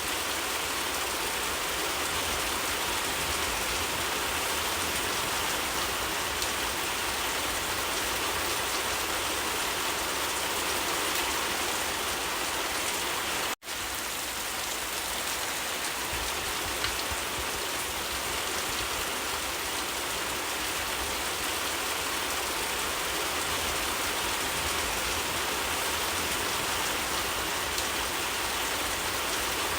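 Steady rainfall, an even unbroken hiss of drops. The sound cuts out for an instant about halfway through, then resumes unchanged.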